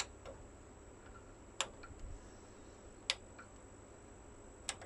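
A series of sharp clicks, about one every one and a half seconds, some followed by a softer tick, over a faint steady hiss.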